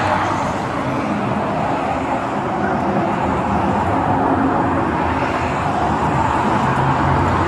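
Steady highway traffic noise from vehicles passing at speed, with a low engine hum beneath it.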